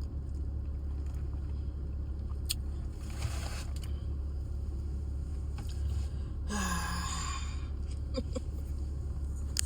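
Steady low hum inside a car, with a few small clicks and two short bursts of higher noise, the second a little louder.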